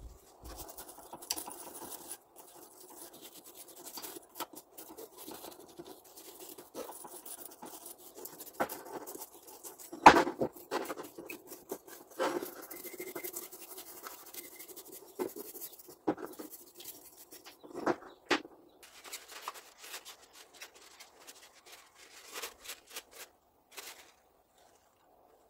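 Irregular scratching and rubbing of hand work on the grinder's parts, with scattered small knocks; the loudest knock comes about ten seconds in, and the sound stops shortly before the end.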